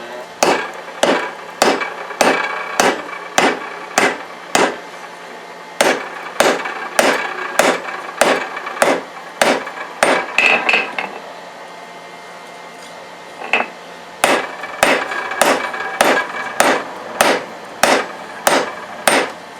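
Hand hammer striking hot leaf-spring steel on an anvil to draw out a knife tang, about two blows a second, each ringing briefly. The blows come in three runs with short pauses between, over a steady low hum.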